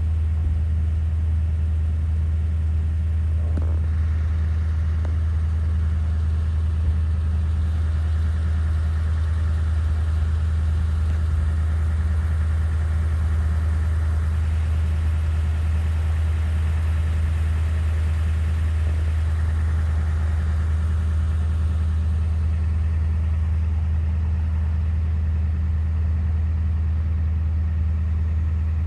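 Steady low engine hum that holds level throughout. A faint higher rushing swells about midway and fades again.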